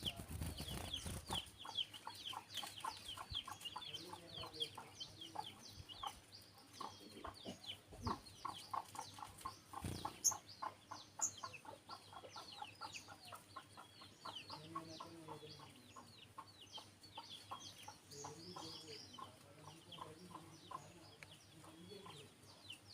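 Olive-backed sunbirds giving a steady run of quick, high-pitched chirps, with a hen clucking low in the background through the second half. A low rumble is heard in the first second or so.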